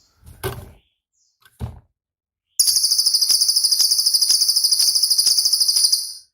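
Cililin bird singing one long, fast, high-pitched buzzing trill for about three and a half seconds, starting about two and a half seconds in. Two short dull knocks come before it.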